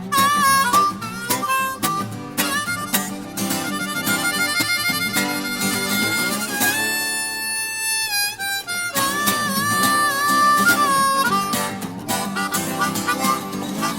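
Blues harmonica solo over steady acoustic guitar strumming, with bent notes and a long held chord about halfway through.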